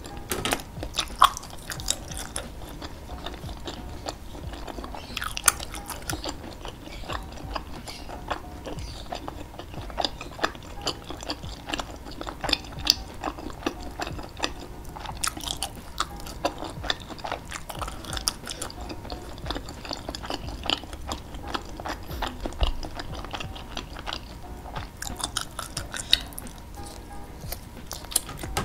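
A person chewing and biting skewered meatballs (bakso) coated in thick chilli sauce, a steady run of short mouth clicks and smacks.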